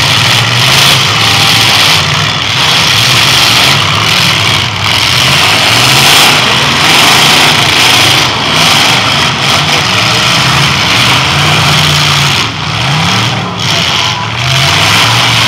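Several demolition derby cars' engines running hard together in the pit, loud and continuous, their pitch rising and falling as the drivers rev and accelerate.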